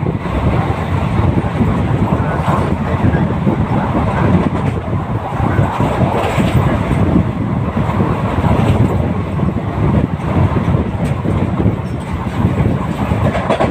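Passenger train running along the track, with a steady rumble of wheels on rails that holds without a break.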